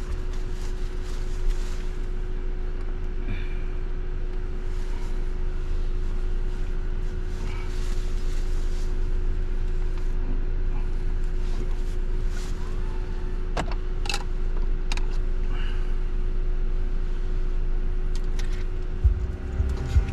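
Car driving, heard from inside: a steady low rumble of engine and road noise with a constant hum, and a couple of brief clicks about two-thirds of the way through.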